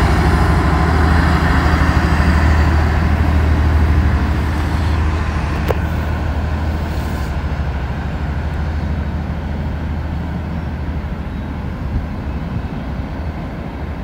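Diesel-hauled freight train running past, a low engine drone with rumbling that slowly fades as it draws away, and one brief click about six seconds in.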